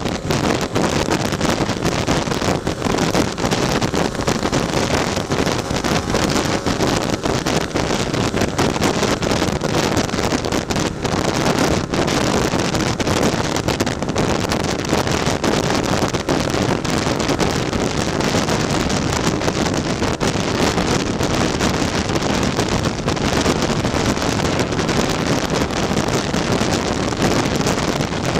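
Wind rushing over the microphone, mixed with the steady running of a tuned Lambretta scooter's two-stroke engine under way at road speed.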